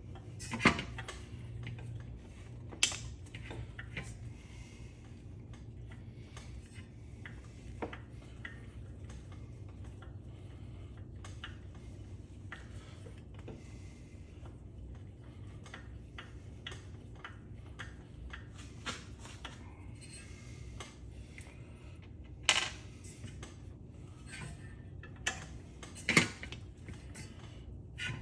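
Metal parts of a ceiling fan and hand tools clinking and clanking while the fan is taken apart: scattered small clinks with a few sharper clanks, the loudest about a second in, around three seconds in and twice near the end, over a steady low hum.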